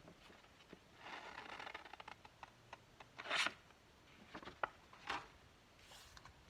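Sheets of paper being handled and shuffled on a craft table: a soft rustle, then a few short taps and scrapes, the loudest about three seconds in.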